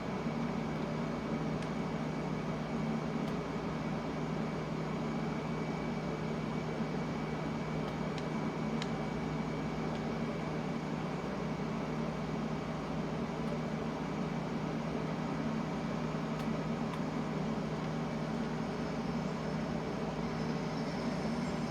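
London Underground train running steadily: a constant low drone with a faint high whine and a few faint ticks.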